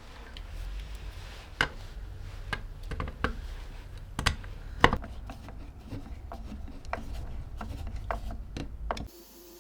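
Irregular clicks and light knocks of hands working on the Felix M mechanical calculator's small metal parts, a few sharper than the rest, over a low rumble; all of it stops abruptly near the end.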